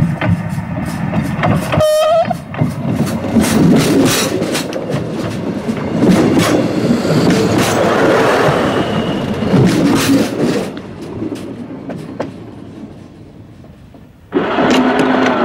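Train wheels rolling over the rails and a turnout just above track level: a fast run of sharp metallic clicks and clacks over a rumble, fading away after about eleven seconds. About fourteen seconds in, an approaching train sounds its horn in one loud, steady blast.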